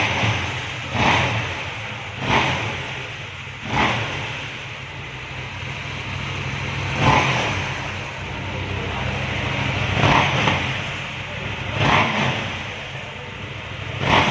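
KTM 790 Duke's 799 cc parallel-twin engine idling, with a series of short throttle blips, each a quick rise and fall in level, every one to three seconds.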